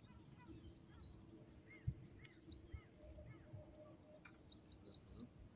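Quiet outdoor ambience with faint birds chirping: a short series of arched chirps about two seconds in, and a quick run of higher chirps near the end. Under it runs a low steady hum, with a soft thump about two seconds in.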